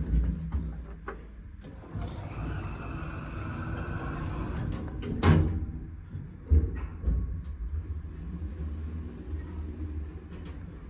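Otis Gen2 lift doors sliding, with the door operator whirring for a few seconds and ending in a sharp knock about five seconds in. A couple of thumps follow, then a low steady rumble from the car.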